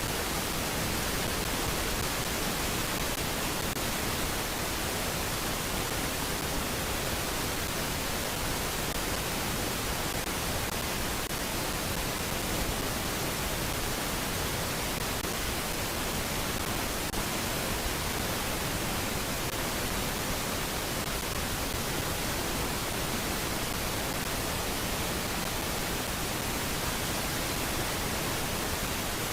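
A steady, even hiss at every pitch that does not change, with no bird calls or other distinct sounds standing out of it.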